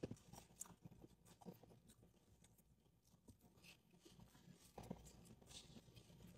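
Near silence with a few faint ticks and mouth smacks: a person quietly chewing a French fry.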